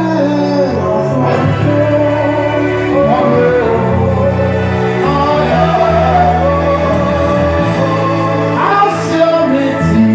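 Worship music with singing: a band playing steady bass and keyboard chords under voices singing a melody, in a large hall.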